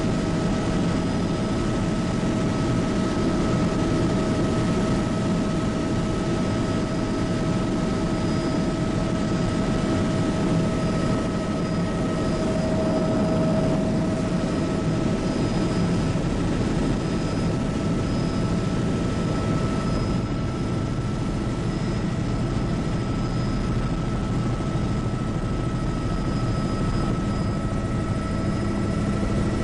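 Bell 206B JetRanger helicopter in flight, heard from on board: its turboshaft turbine whines at a steady pitch, with a few steady tones over a dense rumble of rotor and engine.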